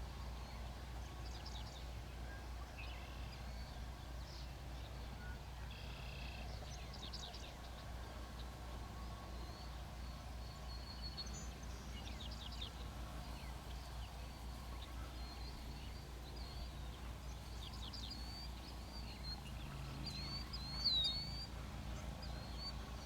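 Small birds chirping and calling in short, scattered high notes, over a steady low hum.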